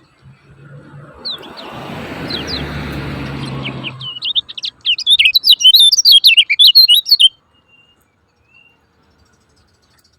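Kecial kuning songbird giving a rapid, loud run of sharp 'ciak ciak' chirps for about three seconds, then stopping. Before the run, a few single falling chirps sound over a rushing noise with a low hum.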